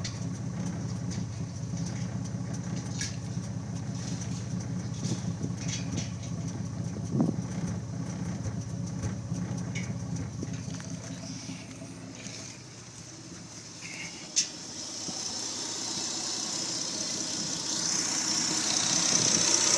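Mitsubishi 6G75 3.8-litre V6 idling with a little bump in its running: a mild misfire from fuel starvation, with a smaller 3.0-litre injector fitted in place of a clogged one. There is a sharp click about two-thirds through, and a hiss grows toward the end.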